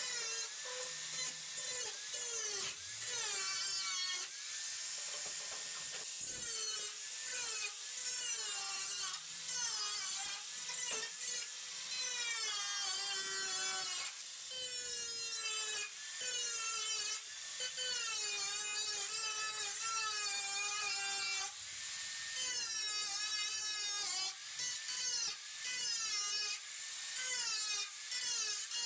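Electric power tool cutting into the bus's steel body: a motor whine whose pitch sags under load and picks up again, over and over, without a pause.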